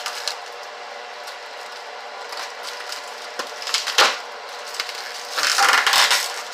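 Plastic food packaging being handled: a sharp knock about four seconds in, then about a second of crinkling plastic near the end, over a steady hum.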